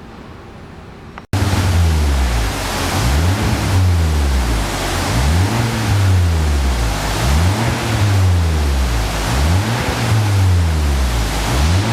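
Kia K5 DL3's 1.6-litre turbocharged four-cylinder, breathing through an aftermarket dual valved exhaust, being revved again and again in short blips. Each blip rises and falls in pitch, about every second and a half, and the engine drops back toward idle in between. The loud exhaust cuts in abruptly about a second in.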